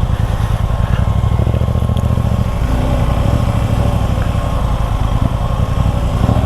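Suzuki V-Strom 250 SX's single-cylinder engine running at steady, moderate revs under load, its firing a fast even pulse.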